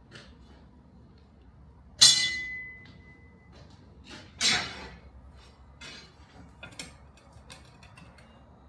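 Metal striking metal in a knife-making workshop: a sharp clank that rings briefly, a second heavier clank a couple of seconds later, then several light clicks and taps.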